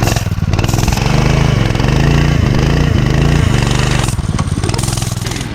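Doodlebug mini bike's small single-cylinder engine running, its revs rising and falling.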